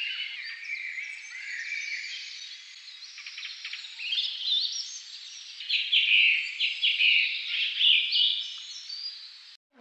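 Small songbirds chirping and twittering together: many quick, overlapping high notes and short falling whistles. The sound is thin, with no low end, and cuts off abruptly near the end.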